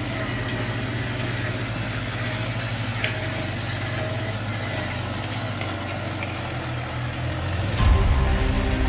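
Steady, engine-like hum of a radio-controlled model truck running. Music comes in near the end.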